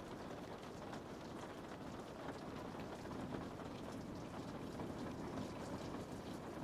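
Steady rain falling on a window, an even patter with scattered faint drop ticks.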